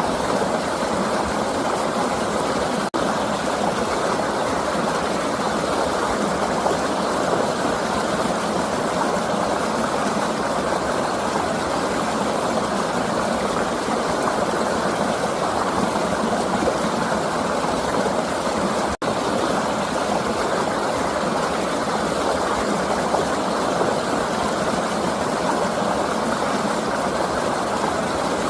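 River water flowing: a steady, even rush, broken by two momentary dropouts, about three seconds in and again about two-thirds of the way through.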